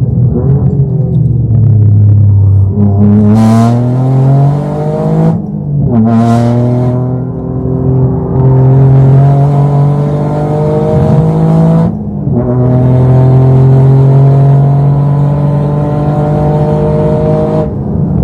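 Toyota GR Yaris turbocharged three-cylinder engine pulling hard under full throttle, rising in pitch through the gears. Two quick upshifts come about five and a half and twelve seconds in, and the engine lets off near the end.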